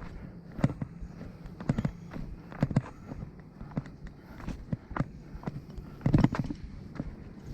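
Footsteps and scuffs of someone climbing down a steep hillside trail, uneven knocks roughly once a second, with a louder cluster of steps a little after six seconds in.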